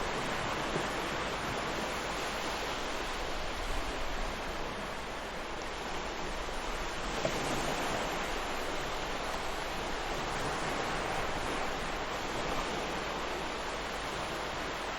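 Ocean waves breaking and washing on a beach as a steady surf hiss, swelling gently every few seconds.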